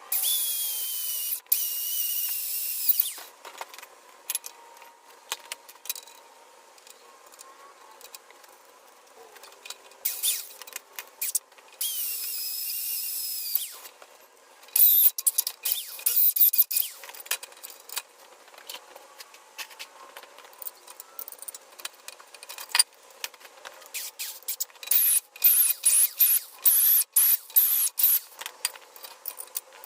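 Handheld power tool working steel, running in three bursts of a high whine that wavers in pitch, followed by many quick clinks and knocks of metal parts near the end.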